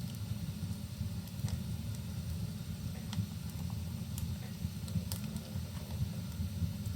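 Wood fire crackling in a fireplace, with sharp pops about once a second over a steady low rumble.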